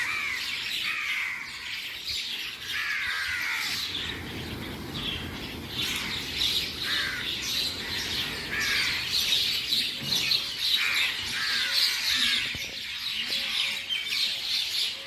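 A flock of birds calling and chirping together: a continuous clamour of many overlapping short calls. A low rumbling noise lies underneath for several seconds in the middle.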